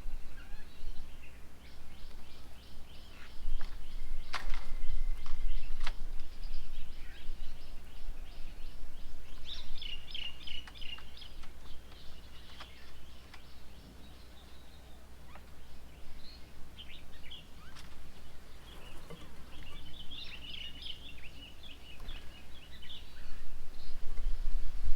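Songbirds chirping and calling in quick repeated series, over a steady low rumble. Two sharp clicks stand out about four and six seconds in.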